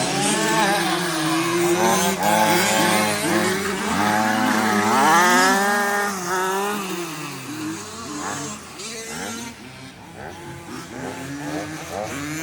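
Motors of several remote-control 4WD racing trucks, their pitch repeatedly rising and falling as they accelerate and slow around the track; loudest about halfway through.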